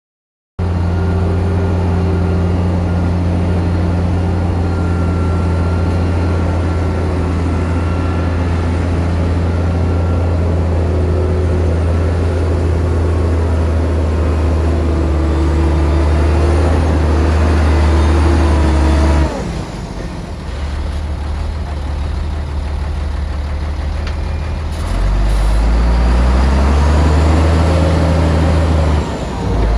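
Bulldozer's diesel engine running hard and steady, with a deep engine hum. About two-thirds through the sound drops suddenly, and later the engine's pitch rises as it revs up again.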